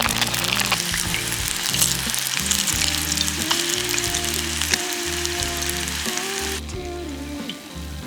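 Food deep-frying in hot oil: a dense, steady crackling sizzle that cuts off abruptly about six and a half seconds in, over background music.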